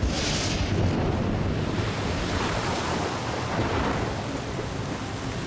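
Stormy-sea sound effects: a low rumble under a steady rush of noise like rain and surf, swelling a couple of times.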